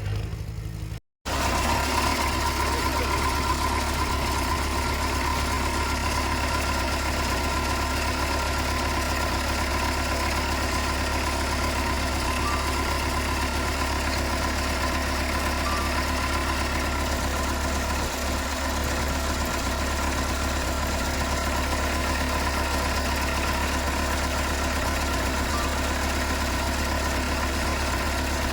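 Heavy diesel engine of an earthmoving machine running steadily at an even, idle-like speed, with a deep hum. The sound cuts out briefly about a second in, then carries on unchanged.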